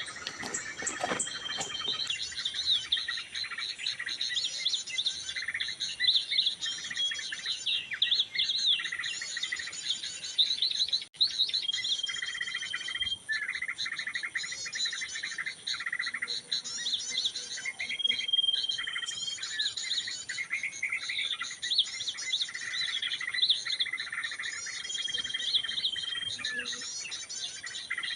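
Small birds chirping and calling in a dense, overlapping chorus. A short, steady high whistle recurs every few seconds.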